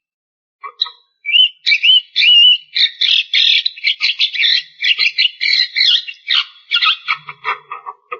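Javan myna (jalak kebo) singing: after a short pause, a few warbling whistles and then a long, fast run of chattering notes with hardly a break.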